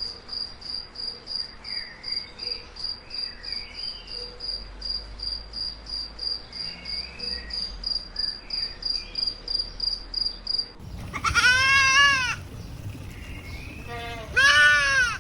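A cricket chirping steadily, about three chirps a second. About eleven seconds in the chirping stops abruptly and a goat bleats loudly twice, the second bleat near the end.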